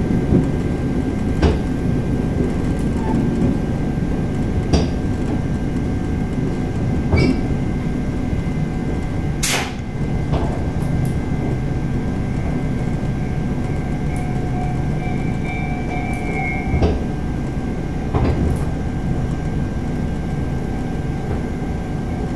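Local train heard from inside the carriage, slowing into a station: a steady low rumble of wheels on rail with scattered clicks and knocks. A faint high squeal, typical of the brakes, sounds for a few seconds a little past the middle.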